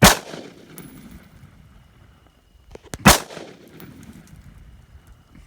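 Two shotgun shots about three seconds apart, each a sharp blast followed by a short decaying echo.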